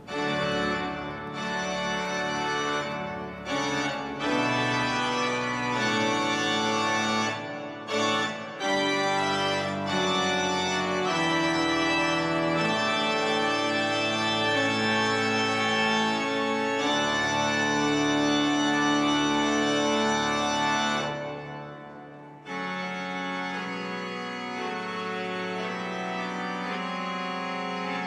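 The pipe organ of St. Peter's Basilica playing full sustained chords that change every second or two, with a few brief breaks in the first nine seconds. About 21 seconds in the sound dies away, and a second later a softer held chord comes in.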